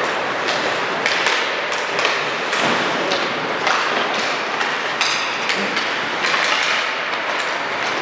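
Basketball game play in a gym: a ball bouncing and players' thuds and taps on the hardwood court, repeated every second or so, over a steady din of the hall. A brief high squeak about five seconds in.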